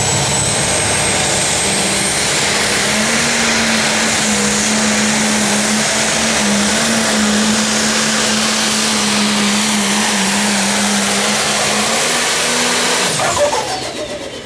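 Pro Stock pulling tractor's turbocharged diesel engine running flat out under load down the track, a steady pitched drone with a high turbo whistle near the start. A little past thirteen seconds in, the engine is throttled back and the sound falls away.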